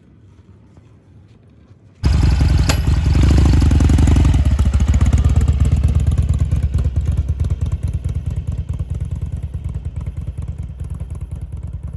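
Harley-Davidson Forty-Eight's 1200 cc air-cooled V-twin coming to life about two seconds in, with a sharp click just after the start and a brief rise in revs. It then runs with an even, lumpy beat that slowly gets quieter.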